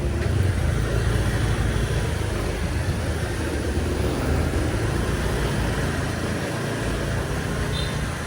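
Steady city street traffic noise, with the engines of passing vehicles running throughout and a brief high-pitched tone near the end.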